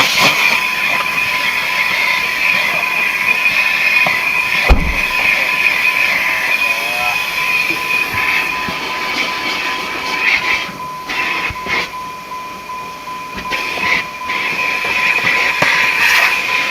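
Car wash vacuum hose running with a steady high whine over a rushing hiss, its pitch band dipping and weakening for a few seconds in the middle as suction changes.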